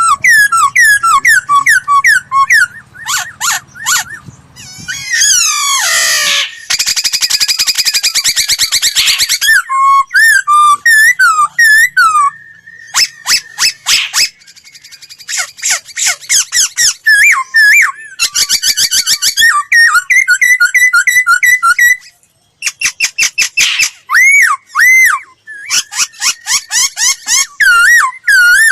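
Laughingthrush (khướu) singing a long, loud run of varied whistled phrases: rapid strings of repeated notes, fast trills and up-and-down sweeps, with a short pause a little past the middle.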